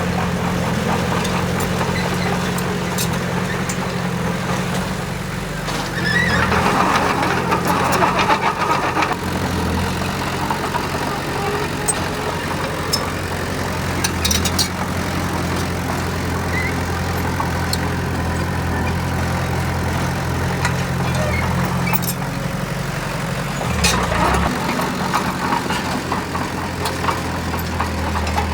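Heavy diesel machinery engine running steadily, with louder, rougher stretches about six seconds in and again near the end, and occasional clanks.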